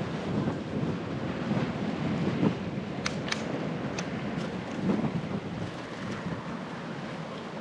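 Steady low rumble of a bicycle ride: tyre noise on the path with wind buffeting the action camera's microphone. A few short, sharp high ticks come about three to four seconds in.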